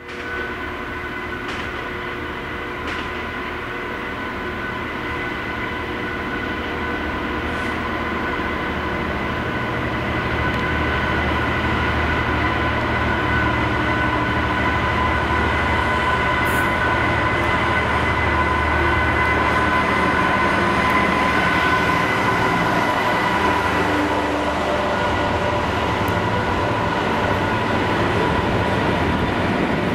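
A Class 66 diesel locomotive with a two-stroke V12 engine rumbles past, hauling a freight train of covered steel wagons, over a steady high-pitched squeal from the wheels. The engine rumble fades a little past twenty seconds in as the wagons roll by.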